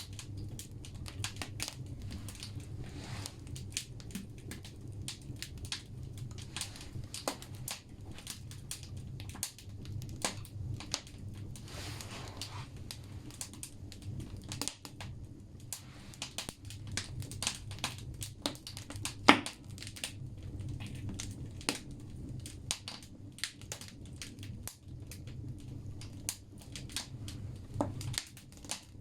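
Wood logs burning in a bathhouse stove's firebox, crackling with many irregular pops and snaps over a steady low rumble. One pop about two-thirds of the way through is much louder than the rest.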